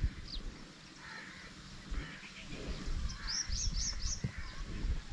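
Small birds chirping, with a run of four quick rising chirps about two-thirds of the way in, over a low rumble.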